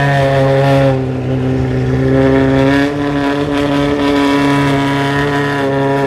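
A loud car engine idling with a deep, steady note, its pitch lifting slightly about three seconds in.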